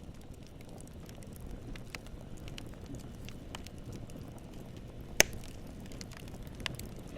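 Campfire burning, a low steady rumble with scattered small crackles and one loud sharp pop about five seconds in.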